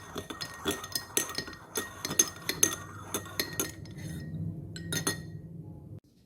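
Dishes and cutlery clinking, a quick irregular run of light knocks with short ringing tones, like metal utensils against glass or ceramic. Over a low hum, it stops abruptly near the end.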